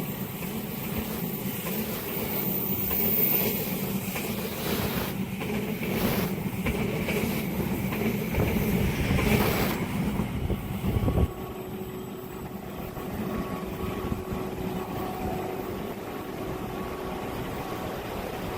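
Passenger train running past on the rails, a continuous rumble with louder surges, which cuts off abruptly about eleven seconds in and gives way to a quieter, steadier mechanical sound.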